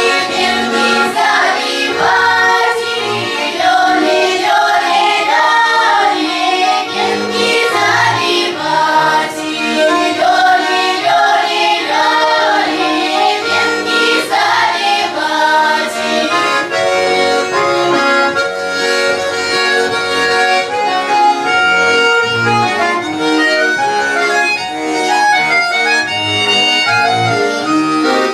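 Accordion playing a tune. For roughly the first half, a voice or voices sing over it, and after that the accordion plays on its own.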